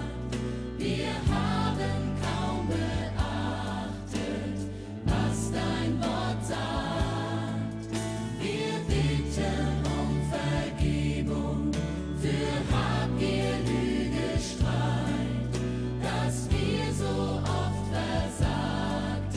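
A hymn sung by several voices with band accompaniment: a steady bass and regular percussive strokes under the sung melody.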